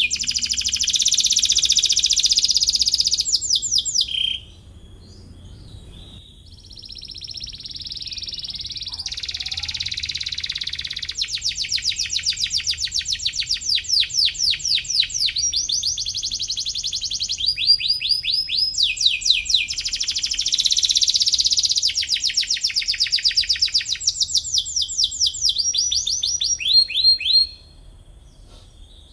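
Domestic canary singing in long trills of rapidly repeated, sweeping high notes. A softer, quieter passage comes about four to nine seconds in, and the song breaks off near the end.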